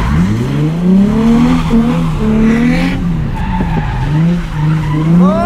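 Nissan 350Z's 3.5-litre V6 revving hard during a drift. The revs climb sharply at the start, then rise and fall with the throttle, climbing again near the end, while the tyres slide on wet asphalt.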